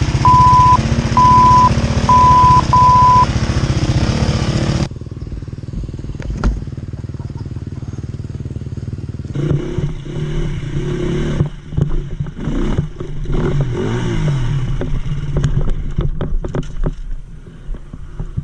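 Off-road dirt-bike engine running and being revved up and down, with knocks and clatter; four short identical high beeps sound in the first few seconds.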